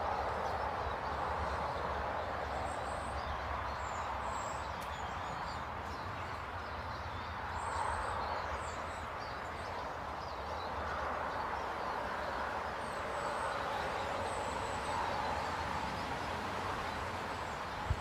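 Small birds giving short, high chirps here and there over a steady outdoor background rumble that swells and fades slowly.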